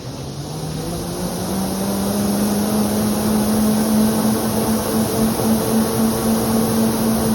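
An exercise bike whirring as it is driven hard in an explosive sprint. Its pitch rises over the first second and a half as it spins up, then holds steady.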